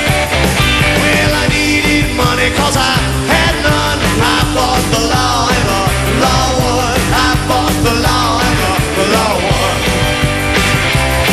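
Rockabilly trio playing live: electric guitar, upright bass and drums driving a steady rock beat, with a melodic lead line bending in pitch over it for most of the stretch.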